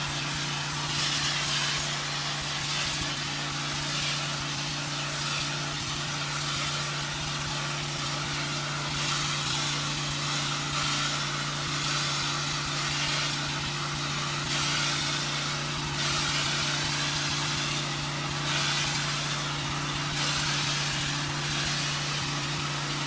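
Pressure washer engine running steadily under the hiss of high-pressure water spraying a concrete driveway, the spray swelling and fading in sweeps every second or two.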